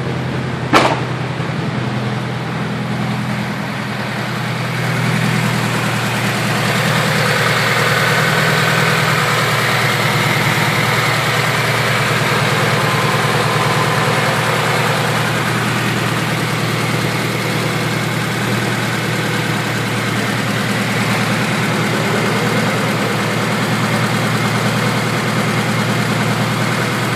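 Honda D16Z6 1.6-litre single-cam four-cylinder, with high-compression pistons and a Bisimoto level 3 cam, running at a fast idle of about 1300 RPM just after its first startup. A sharp click comes a little under a second in, and the engine grows a bit louder about six seconds in, then runs steadily.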